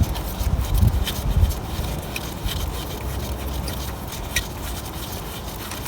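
Light scraping and a few scattered faint metal clicks over a low rumble, as a spanner and breaker bar work a brake caliper slider bolt loose.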